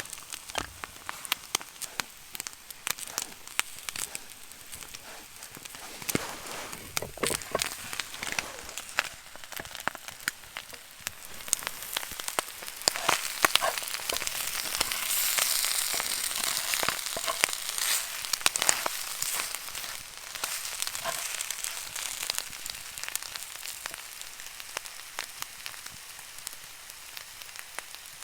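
Food sizzling in a pan over a crackling campfire, with sharp pops and crackles throughout; the sizzle swells louder about midway and then eases off.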